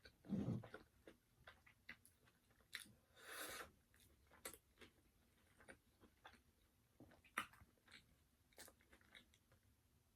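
Close-miked, faint chewing of a bite of fried chicken dipped in gravy and ketchup: scattered small wet clicks and crunches, with a longer crunchy chew about three seconds in.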